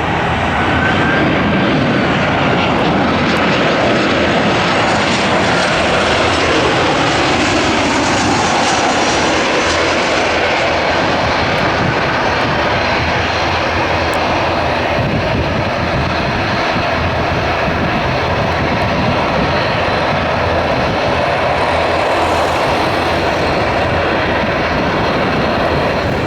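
Boeing 737-800's CFM56-7B turbofan engines running, a loud, steady rushing noise with faint whining tones that shift in pitch over the first several seconds.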